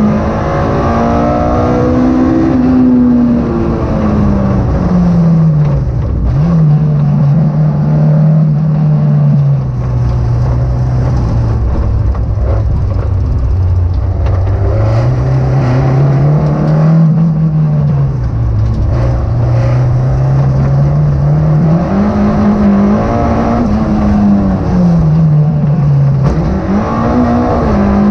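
Car engine heard from inside the cabin, driven hard round a tight course. The engine note rises and falls again and again as the driver accelerates, lifts off and picks up speed again, with a long steady stretch at lower revs in the middle.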